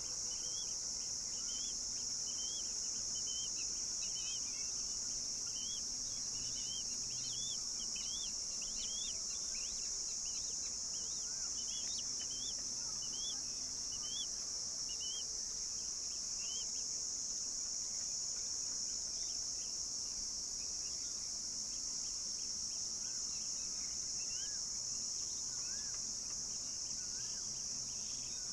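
Steady, high-pitched drone of insects, with many short, quick bird chirps over it, frequent through the first half and sparser later.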